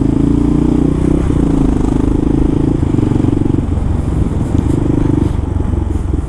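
Kawasaki KLR650's single-cylinder engine running under way, a steady pulsing note that eases briefly about four seconds in and again near the end as the throttle changes.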